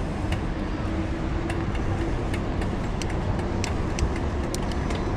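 Silverback Stride Expert bicycle being ridden: a steady rumble of wind and rolling tyres, with scattered light ticks and rattles from the bike.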